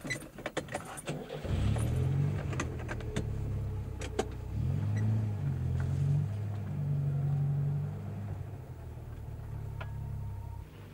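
A few sharp clicks, then an old car's engine starts about one and a half seconds in. It is revved, its pitch rising and falling, then runs steadily and drops in level near the end.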